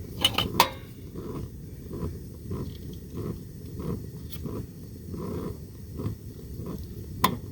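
Butter being put into a cooking pot, with a few sharp clicks of a utensil against the pot: two just after the start, one midway and one near the end. Under them runs an irregular, low pulsing sound.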